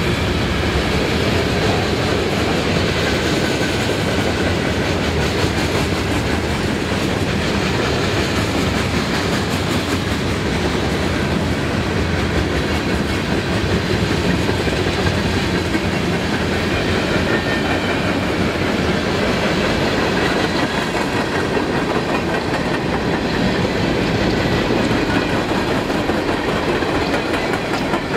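Freight cars rolling past close by, steel wheels clicking over the rail joints in a steady, loud rumble.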